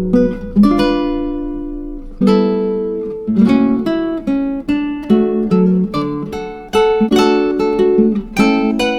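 Background music: acoustic guitar plucked and strummed, chords and single notes ringing and dying away between strokes.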